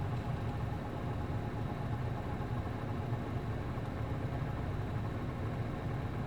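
City bus's MD92TJ diesel engine running steadily with an even low hum, with no revving up or down.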